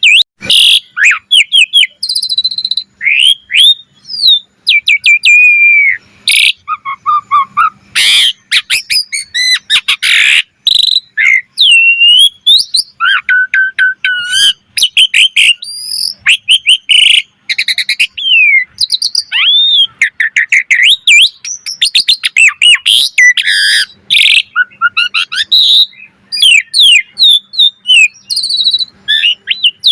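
Asian pied starling (jalak suren) singing a long, varied song in full voice: quick whistles, slurred glides and chattering trills mixed with a few harsh rasping notes, almost without pause.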